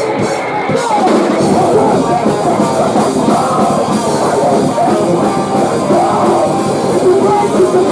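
Post-hardcore rock band playing live, with distorted electric guitars and a drum kit, loud and continuous.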